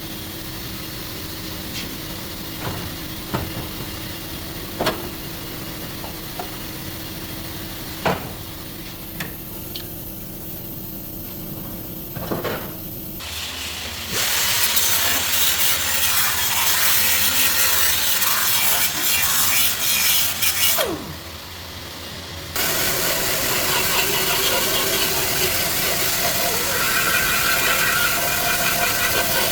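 Auto body work on a car's quarter panel: scattered clicks and taps over a steady hum, then about halfway through a loud power tool starts sawing or grinding at the metal. It runs in two long stretches with a short break between them.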